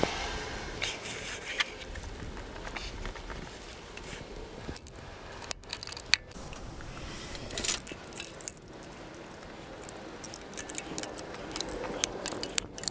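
Handling noise: irregular light clicks, scrapes and rubs, as of small metal tools or parts being handled.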